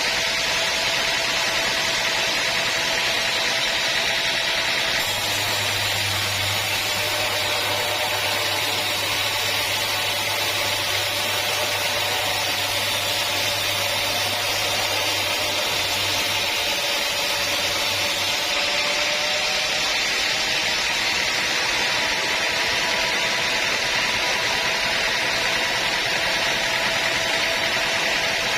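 Sawmill saw running steadily: a continuous machine whine with a few held tones. A low hum joins for a stretch in the middle.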